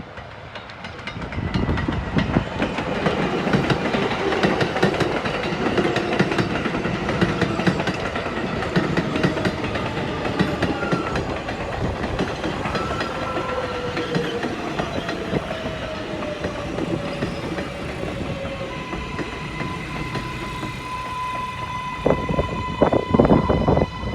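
New York City Subway R188 train pulling into a station: the wheels clatter over rail joints, with short screeching squeals in the middle. A steady electric whine rises in the second half as the train slows to a stop, with a few heavy knocks near the end.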